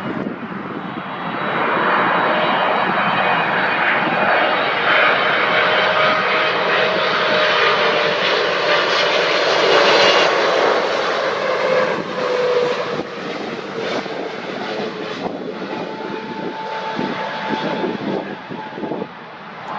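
Airliner passing close by: its engine noise builds over the first couple of seconds, stays loud through the middle with a whine that slowly falls in pitch, then fades. Wind buffets the microphone in the later part.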